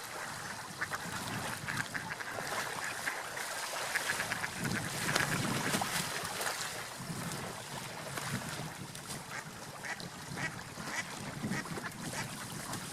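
Ducks feeding in shallow water: quacking calls over a constant patter of small splashes and clicks, busiest for a couple of seconds in the middle.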